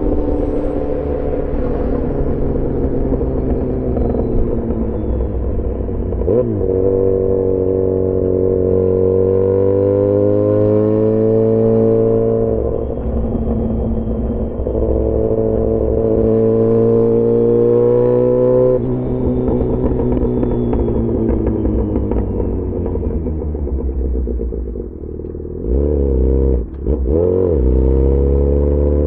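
Yamaha XJ6 S's 600 cc inline-four engine through an SC-Project aftermarket exhaust, accelerating with its note rising and dropping back at three gear changes. Near the end the throttle closes briefly, then there are two quick revs.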